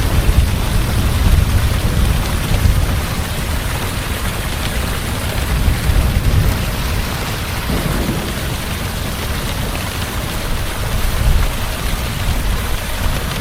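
Heavy rain falling steadily, with a low rumble of thunder that is strongest in the first few seconds and then dies away.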